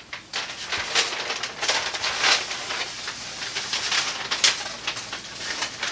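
Paper rustling and crackling in irregular bursts as a long printed strip of traffic tickets is handled and unrolled.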